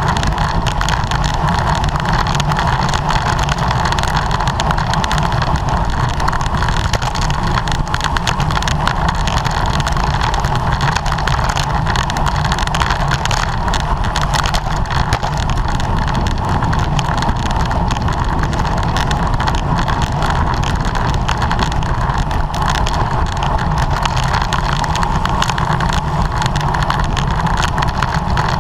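Steady wind rushing over the camera microphone of a road bike at racing speed, mixed with tyre and drivetrain noise.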